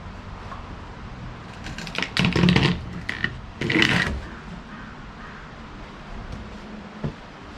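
Two short bursts of clattering knocks, about two and about four seconds in, with a single sharp knock near the end.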